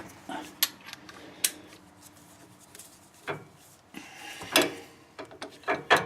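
Scattered metal clicks and clinks, with light scraping, as nuts are threaded by hand onto the axle bolts of a Ford 8-inch rear end; a few sharper knocks stand out about three and four and a half seconds in.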